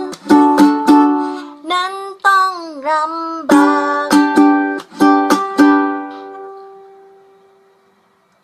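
Strummed string instrument playing the closing chords of a song, with one wavering sung note bending down and back up in the middle. The last strum rings on and fades away.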